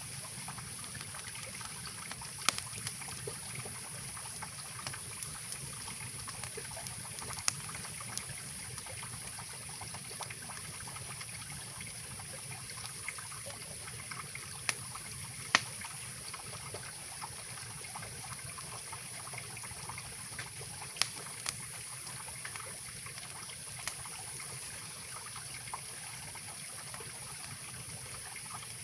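Mountain river rushing steadily under a campfire, with scattered sharp pops and cracks from the burning wood.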